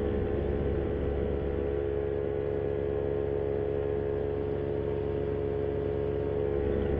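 Vittorazi Moster 185 single-cylinder two-stroke paramotor engine running steadily at cruise power in flight, a constant drone with a strong steady tone and no change in speed.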